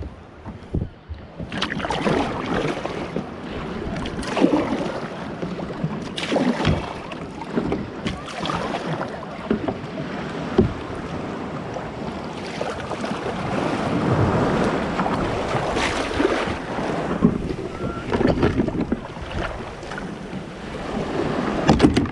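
Ocean waves and surf washing around a kayak, with wind buffeting the microphone and occasional knocks against the hull.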